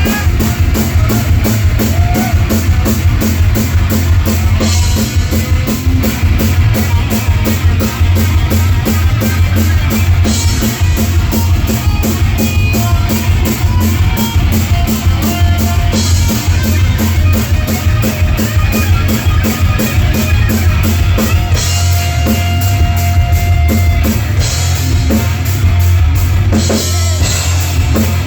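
Live rock band playing an instrumental passage: a fast, even drum beat with bass and electric guitar, loud and dense.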